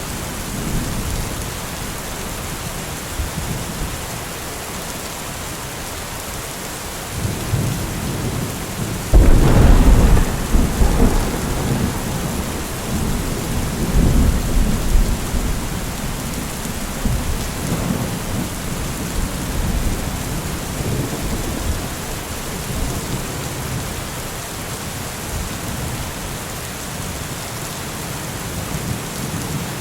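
Steady rain falling through a thunderstorm. A low rumble of thunder builds, breaks into a loud thunderclap about nine seconds in, and rolls on for several seconds, with further rumbles after it.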